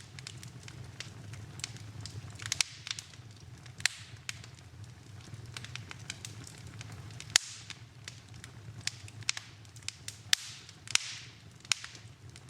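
Wood fire crackling in a fireplace: irregular sharp pops and snaps over a low steady rumble, with a couple of brief hisses. The loudest snap comes a little past halfway.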